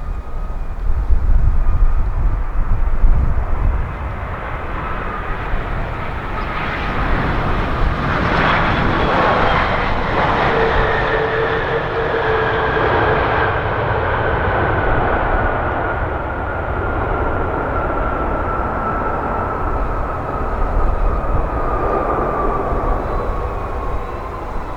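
Jet airliner flying past on its landing approach: a steady engine roar with a whining tone that falls slowly in pitch as it goes by. Strong gusty wind buffets the microphone, heaviest in the first few seconds.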